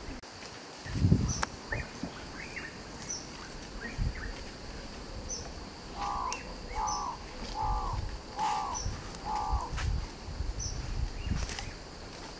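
Birds calling: one bird gives five harsh calls in a row, a little under a second apart, about halfway through, over short high chirps every couple of seconds and a steady high hum. A low thump comes about a second in.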